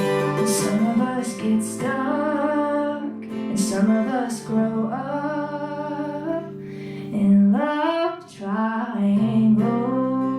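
A woman singing a song live over a strummed acoustic guitar.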